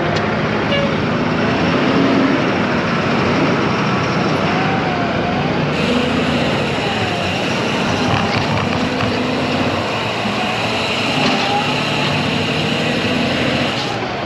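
Steady road traffic noise from passing cars and trucks, mixed with wind rushing over the microphone.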